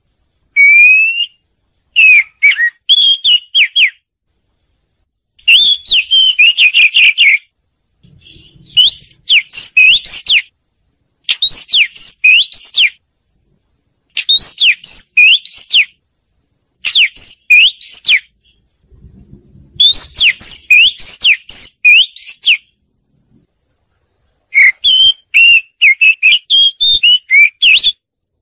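Oriental magpie-robin singing: eight loud phrases of quick rising and falling whistled notes, each a second or two long, with short silences between them.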